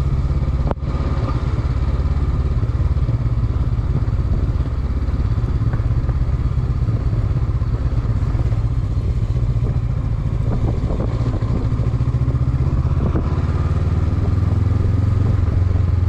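Honda CB500X's parallel-twin engine running steadily as the motorcycle is ridden, a continuous low drone, with one sharp click about a second in.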